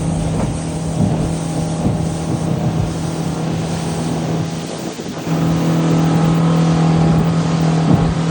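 Motorboat engine running steadily at one pitch. It dips briefly about five seconds in, then runs louder.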